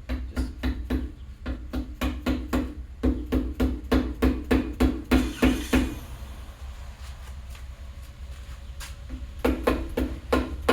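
Rubber mallet lightly tapping a main bearing cap down into the engine block, about four quick taps a second. The cap is binding and not going in smoothly. The taps stop for a few seconds past the middle and start again near the end.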